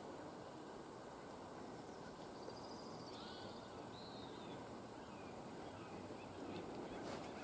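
Quiet woodland background with a steady faint hiss and a few faint, distant bird calls about three to four seconds in.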